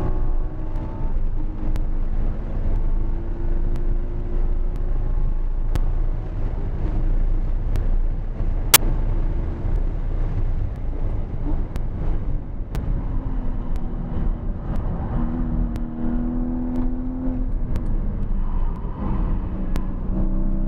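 Porsche Cayman GT4's flat-six engine being driven hard on a race track, its pitch climbing and dropping as it accelerates and slows, over a steady bed of road and tyre noise. A single sharp click about nine seconds in.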